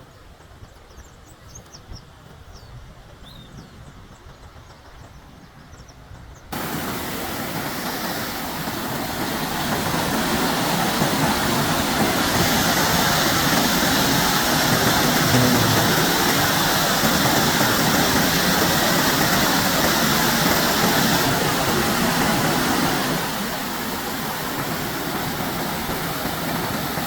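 Quiet outdoor ambience with a few faint high chirps, then about six seconds in a loud, steady rush of falling water from a waterfall cuts in abruptly and continues, easing slightly near the end.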